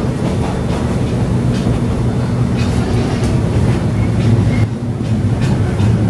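Local train running, heard from inside the passenger car: a steady rumble of wheels on rail, with occasional light clicks over the track.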